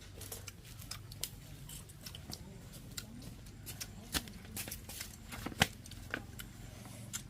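Irregular series of sharp light clicks and snaps, the loudest about halfway through, over a low steady background hum.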